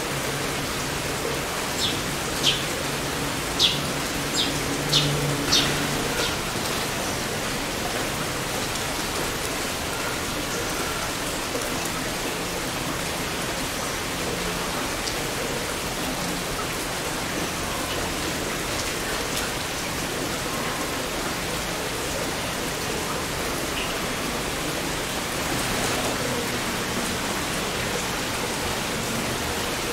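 Heavy rain falling steadily, an even hiss of rain on surfaces, with a few sharp ticks in the first six seconds.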